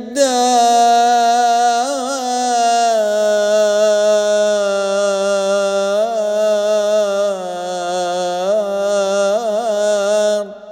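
Unaccompanied male voice chanting Arabic poetry, holding one long drawn-out vowel for about ten seconds. The held note is decorated with short trills a few times before it stops near the end.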